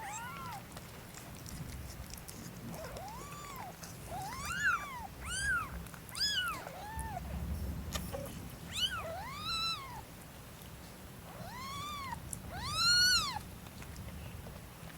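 Cat mewing: about ten short calls, each rising and then falling in pitch, spread out with short gaps, the loudest one near the end.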